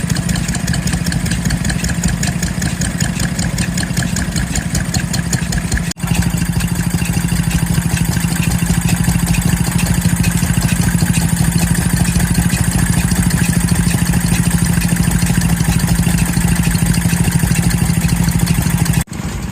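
An engine running steadily with a fast, even beat. The sound breaks off for an instant about six seconds in and again near the end, then carries on much the same.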